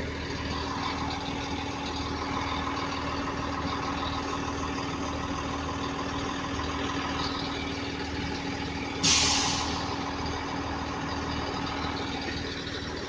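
A train idling with a steady hum and a constant low tone. About nine seconds in comes a sudden loud burst of air hissing that fades over about a second: an air brake or air system release.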